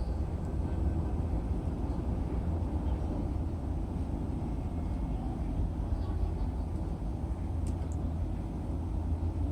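Steady low rumble of railway platform ambience, with a couple of faint high ticks about eight seconds in.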